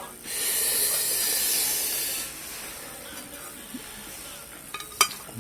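A pressurised spray hisses steadily for about two seconds, then stops; a single sharp click follows near the end.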